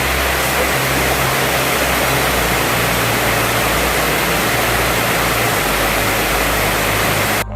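Loud, steady rush of floodwater, an unbroken noise that cuts off suddenly near the end.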